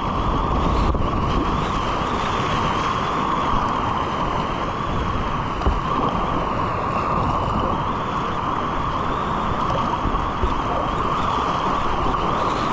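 Steady rush of moving river water, with wind noise buffeting the microphone.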